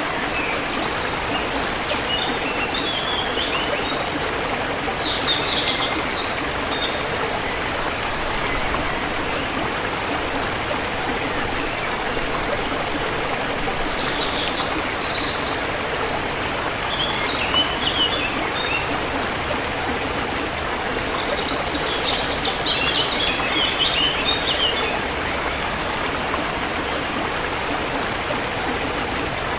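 A river flowing steadily, with songbirds chirping in short flurries over it every several seconds.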